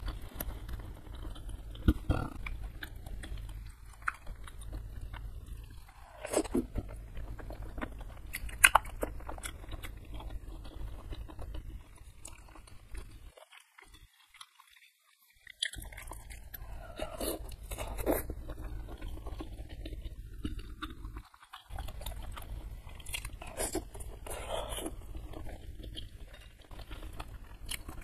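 Close-miked chewing and biting of spicy gulai kikil (beef-hide curry) eaten by hand: wet smacks and crunchy, gristly bites over a steady low hum, pausing briefly about halfway through.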